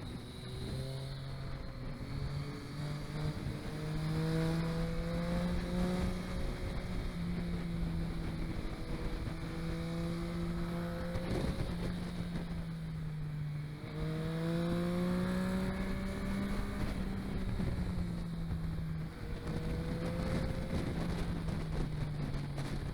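Vehicle engine running under way, its note climbing, holding and dropping back several times as it accelerates and eases off. A heavy rumbling noise lies over it, and the recording is damaged.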